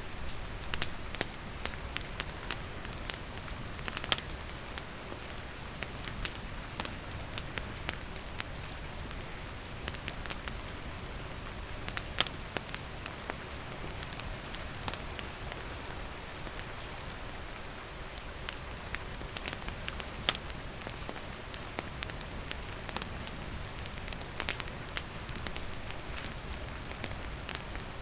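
Steady rain falling, mixed with a campfire's wood crackling in scattered sharp pops.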